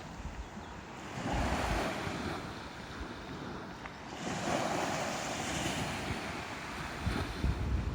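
Ocean waves breaking and washing up a sandy beach, the surf swelling twice, about a second in and again about four seconds in. Wind rumbles on the microphone underneath.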